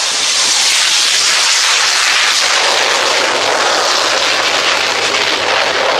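Aircraft flying past, a loud rushing roar that swells in the first second and turns duller about two and a half seconds in.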